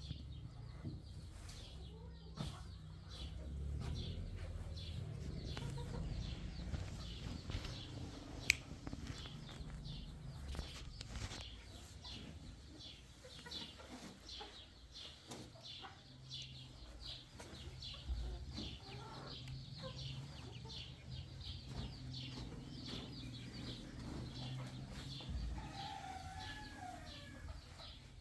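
Chickens clucking and calling over and over, over a low rumble, with a few longer, wavering calls near the end.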